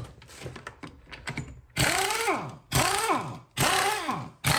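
Light clicks and taps, then four short whirring squeals about a second apart, each rising briefly in pitch and then falling, as seized, over-tightened wheel bolts are worked loose.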